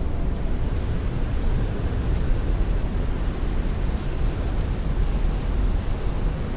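Heavy rain pelting a window while strong wind rushes, a steady, dense wash of noise with a deep low rumble underneath.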